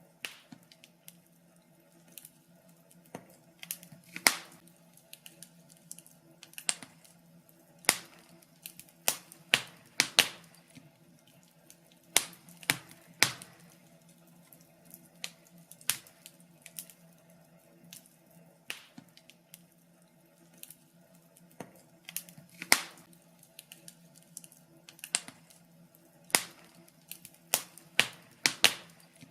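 Fireplace fire crackling: irregular sharp pops and snaps, one or two a second and uneven in strength, over a faint steady hum.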